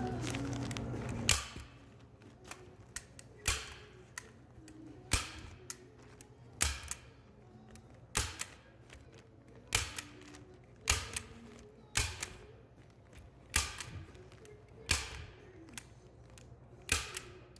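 A staple gun firing, about eleven sharp snaps spaced roughly one and a half seconds apart. A steady low hum cuts off just over a second in, before the first snap.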